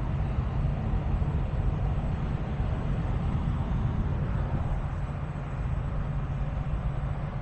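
Heavy truck's diesel engine running steadily at a low, even speed.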